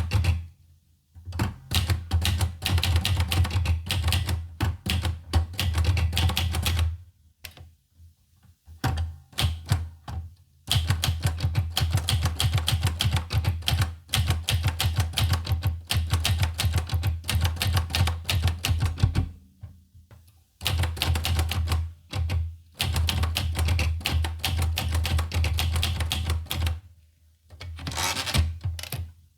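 Olivetti Lettera 25 manual portable typewriter being typed on quickly: fast runs of key strikes broken by several short pauses of about a second.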